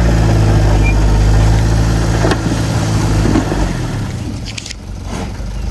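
Diesel engine of heavy earthmoving machinery running with a steady low hum, getting quieter about four seconds in, with a sharp click partway through and a few light clicks near the end.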